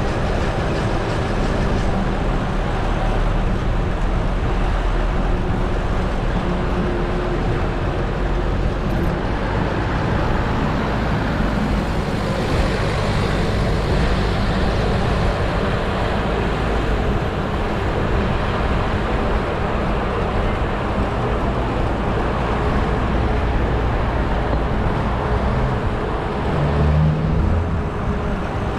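Steady road traffic noise of cars and buses on a busy city road, heard from a bicycle riding along it.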